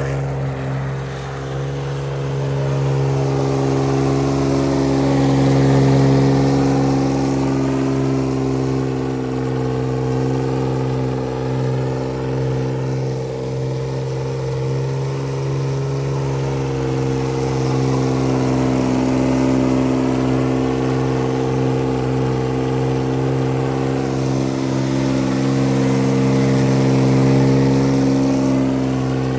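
A vehicle's engine held at steady high revs through a long burnout. Over it, a higher sound rises and falls about every ten seconds, as the vehicle circles past.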